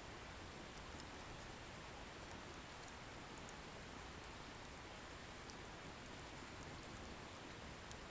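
Wood bonfire burning: a faint steady hiss with scattered, light crackles and pops from the firewood, a few in every couple of seconds.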